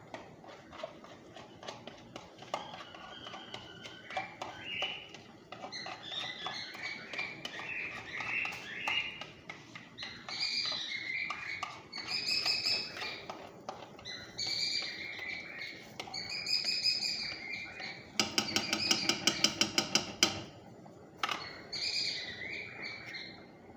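A bird chirping in repeated short calls that grow louder, with a fast rattling trill of sharp strokes about three-quarters of the way through.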